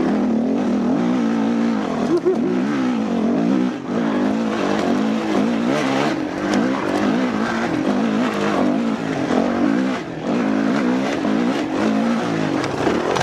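Dirt bike engine running hard, its pitch rising and falling repeatedly as the throttle is worked.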